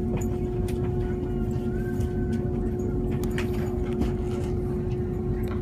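Interior running noise of a CRH1 electric multiple unit under way: a steady low rumble with an even hum over it and a few light clicks.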